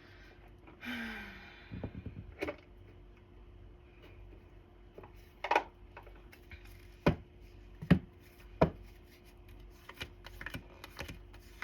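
Tarot cards being handled and laid down on a table: scattered sharp taps and clicks, five of them louder, with a brief rustle about a second in.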